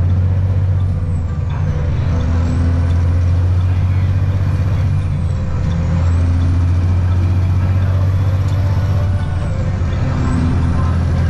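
Heavy truck's diesel engine droning steadily while driving, heard from inside the cab.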